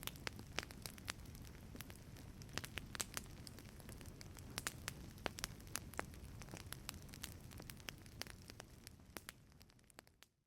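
Wood fire crackling in a fireplace: frequent sharp pops and snaps over a steady low rumble. It fades out near the end.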